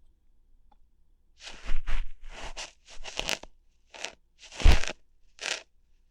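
A string of about nine short, crackly rustles and plucks close to the ear microphone, irregularly spaced, starting about a second and a half in. These are ASMR ear-hair-plucking sounds.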